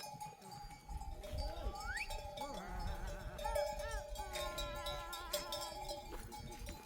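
Bells on a grazing flock of sheep clanking and ringing steadily as the animals move, with a few sheep bleating in the middle.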